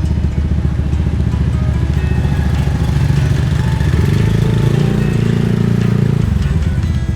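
Motorcycle engine running while riding, growing fuller and louder between about four and six seconds in, then settling back.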